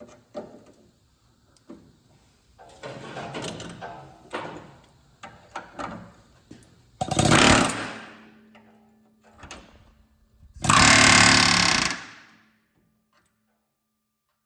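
Power tool working on a steel engine mount in two loud bursts of about a second each, with scattered knocks and clanks of metal before them.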